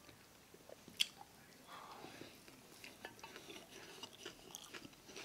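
Quiet chewing of a ground-beef taco: faint mouth clicks and small crackles, with one sharper click about a second in.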